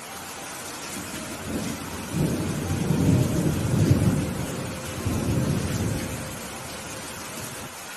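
Rolling thunder during steady rain. A low rumble builds about a second and a half in, peaks at about three to four seconds, swells once more, and dies away near the end while the rain hiss continues.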